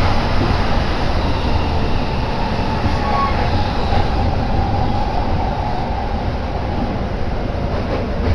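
Cabin noise inside a moving JR Joban Line commuter train: a steady low rumble of the wheels on the rails, with a faint whine in the middle.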